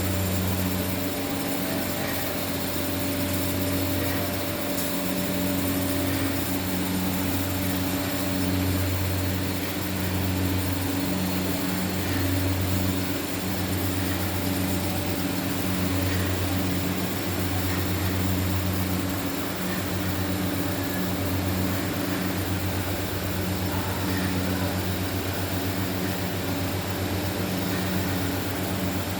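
Mawa-making plant machinery running steadily: a constant low electric hum over an even hiss, with no change or break.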